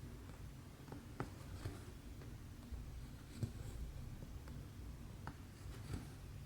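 Needle and thread being worked through cross-stitch fabric: faint scratchy pulls of the thread with a scattering of soft clicks as the needle pierces the canvas, over a low room hum.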